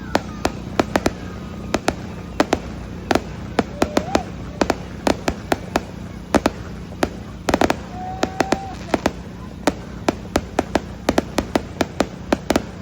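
Fireworks going off in quick, irregular succession: many sharp bangs and pops, several a second, over a steady low rumble.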